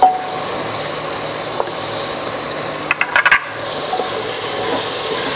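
Onion, tomato and spice masala sizzling with a steady hiss in hot oil in an aluminium pressure cooker as it is stirred with a wooden spoon. A short cluster of knocks comes about three seconds in.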